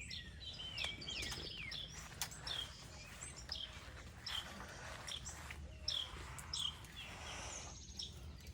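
Songbirds chirping: short, high, falling calls repeated about twice a second, over a faint steady low rumble.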